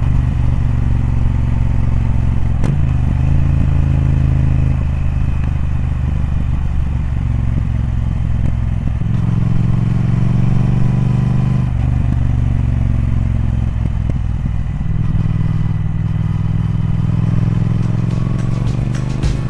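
Triumph Speed Twin's parallel-twin engine running on the move, its low note shifting in pitch several times as the throttle and revs change.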